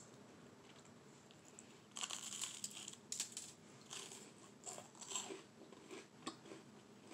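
Crunchy butter-and-sugar toast being bitten and chewed: a run of crisp crackling crunches starting about two seconds in and going on for several seconds.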